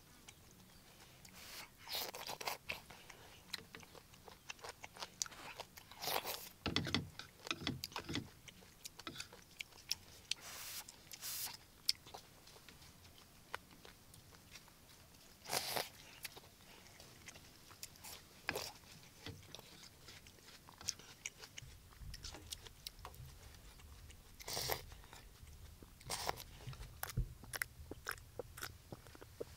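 A person chewing a mouthful of food close to the microphone: irregular short clicks and soft crunches of eating, spaced out over a quiet background.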